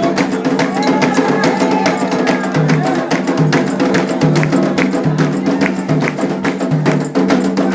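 Candomblé ritual music: atabaque hand drums playing a fast, steady rhythm with sharp clicking strikes keeping time, and voices chanting over it.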